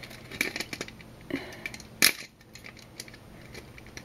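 Small hard plastic clicks and clacks of B-Daman toy parts being handled and fitted together, with one sharper click about two seconds in.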